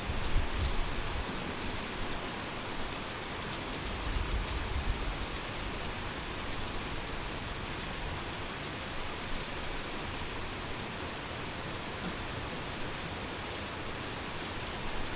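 Heavy rain falling in a steady, dense hiss, with a brief low rumble about four seconds in.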